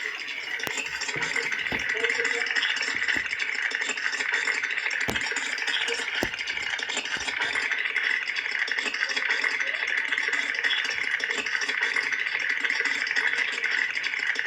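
A cartoon rattling sound effect: a fast, dense, continuous rattle, like something small shaking hard, with a few sharper clicks along the way.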